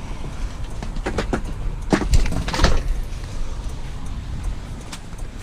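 Several knocks and clunks of a heavy salvaged scrap item being handled, the loudest a short cluster about two to two and a half seconds in, over a steady low rumble.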